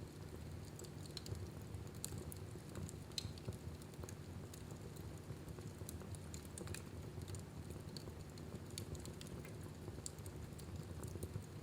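Wood fire burning in a fireplace: many small crackles and pops, several a second and irregular, over a low steady rumble of the flames.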